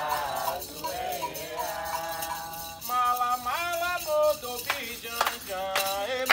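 Voices singing a Candomblé chant for Xangô, with a shaken rattle keeping a steady beat.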